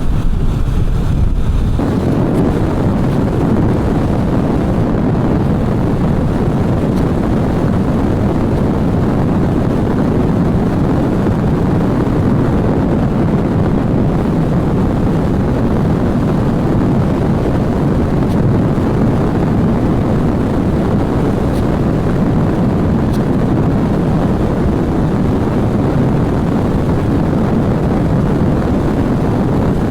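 Kawasaki Vulcan 650 motorcycle cruising at road speed in fifth gear: a steady rush of wind over the microphone mixed with engine and road noise.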